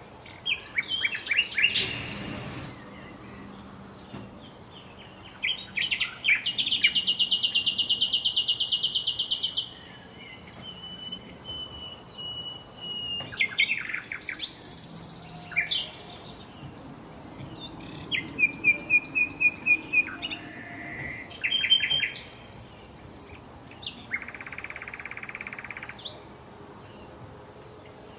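Songbirds chirping and calling, with a fast trill of many rapid notes lasting about three seconds early on, a run of quick repeated notes later, and a short buzzy call near the end. A faint steady high tone runs underneath.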